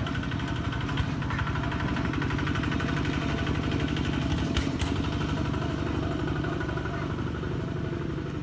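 An engine running steadily with an even pulsing beat, with a couple of brief clicks about one second and four and a half seconds in.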